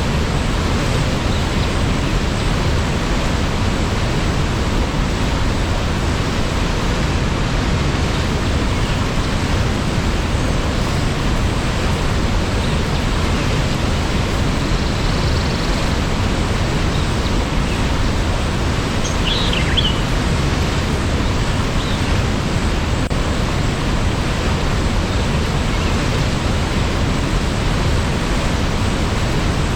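Waterfall rushing, a steady even roar of falling water, with one brief high chirp about nineteen seconds in.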